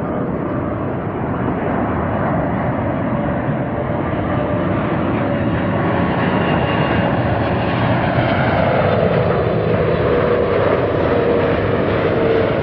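Boeing 777-300ER's GE90 turbofan engines running as it comes in to land: a loud, steady jet rush with a whining tone that falls in pitch from about eight seconds in as the aircraft passes.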